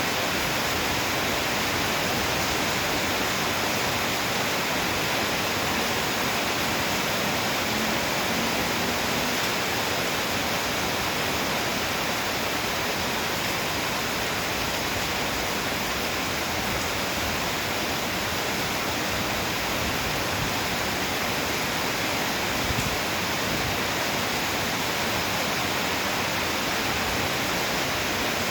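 Heavy downpour: a steady, even rush of pouring rain.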